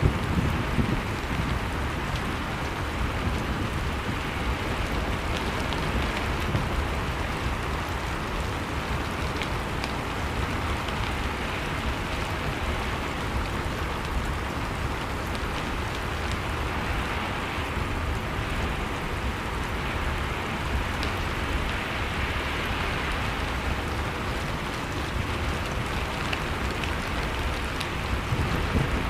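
Blizzard-and-fireplace ambience: storm wind makes a steady rushing noise with a deep rumble, while a wood fire crackles with scattered small pops.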